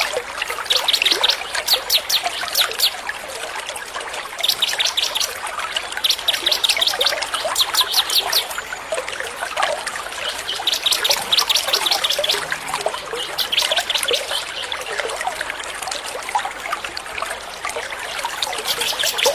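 A small songbird repeating rapid trains of high, clicking chirps, each burst lasting a second or two and coming every few seconds, over a steady trickle of water.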